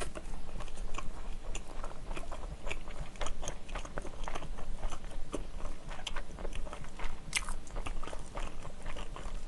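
Close-miked chewing of a mouthful of kimchi fried rice: a steady run of many small, irregular wet clicks and soft crunches.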